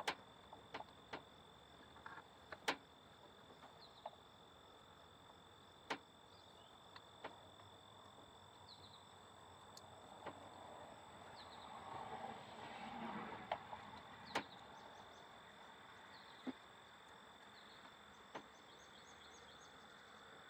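Scattered sharp clicks and taps from handling a car engine's wiring harness and its plug connectors, with a stretch of rustling a little past halfway. A faint steady high tone runs underneath.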